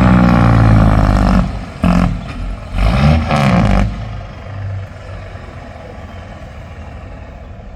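Tractor engine revving loudly in three bursts, the last one rising and then falling in pitch, then dropping back to a quieter steady running about four seconds in.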